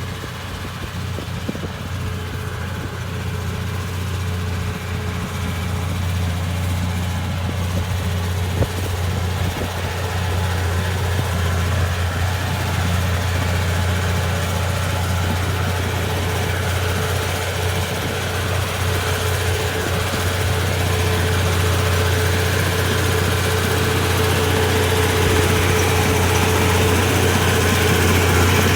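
Bulldozer's diesel engine running steadily, slowly getting louder, with a single sharp knock about nine seconds in.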